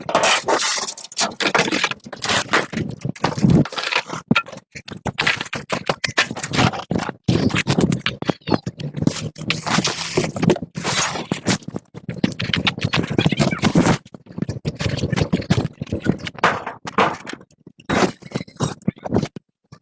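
Scraping, clicking and clinking of hand tools working on metal machine parts, in short stretches broken by sudden stops.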